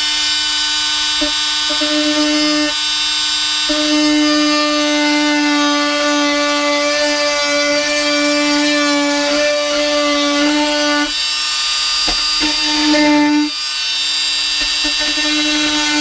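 Oscillating multi-tool cutting into the van's sheet steel, a steady high buzz that wavers as the blade bites and eases off briefly about thirteen seconds in.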